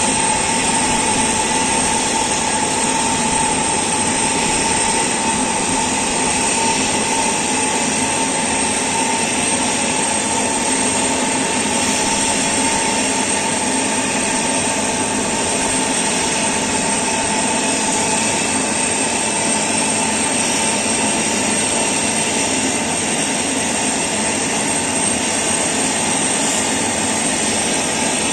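Antonov An-124 cargo aircraft's turbine running steadily on the ground, a constant roar with a high whine held at one pitch.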